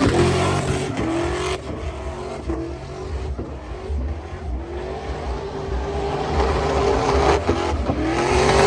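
Truck engine revving hard, its pitch sweeping up and holding at high revs several times.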